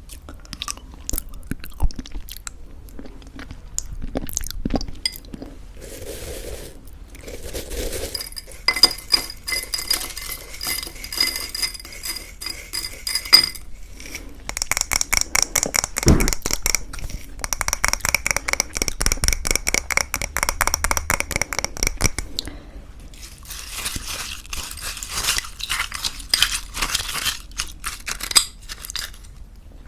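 A spoon clinking and scraping against a bowl as thick yogurt and homemade granola are scooped and stirred, in long runs of rapid ringing clicks with one heavier knock partway through. The crisp granola crunches between them.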